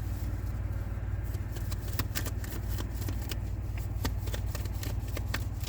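A tarot deck being shuffled by hand: an irregular run of crisp card flicks and clicks, thickest from about two seconds in, over a steady low hum.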